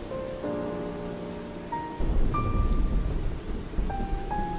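Steady rainfall with soft, sparse piano notes ringing over it. About halfway through, a low rumble of thunder comes in and keeps going under the rain.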